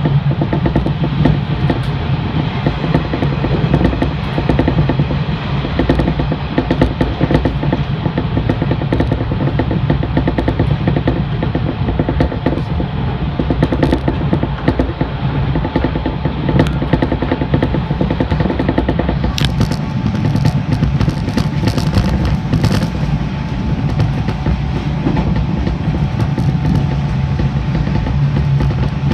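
JR East 583 series electric train running along the line, with a steady low rumble and the click of wheels over rail joints. About two-thirds of the way in there is a brief spell of sharper, higher clatter.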